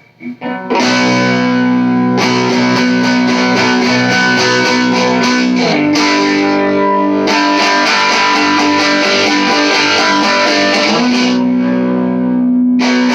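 Electric guitar played through a small all-tube amp, both pickups in series, tone turned fully up and gain low. Sustained chords change every few seconds, starting after a brief pause.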